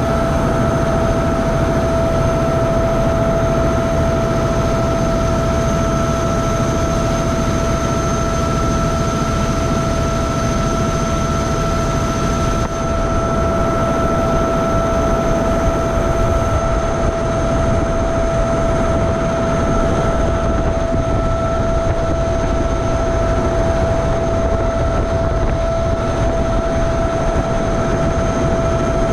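River boat's engine running steadily: a loud, even rumble with a constant high whine over it.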